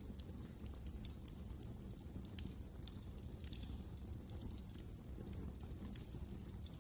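Wood fire in a fireplace crackling, with frequent small irregular pops and snaps over a low steady rumble of the flames.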